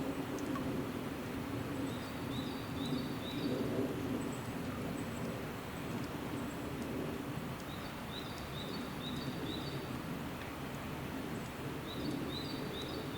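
A small songbird singing a short phrase of four or five quick, similar high notes, repeated three times, over a steady low background rumble.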